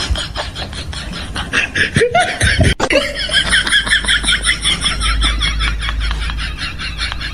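A person laughing, with a quick run of high-pitched laughs starting about three seconds in.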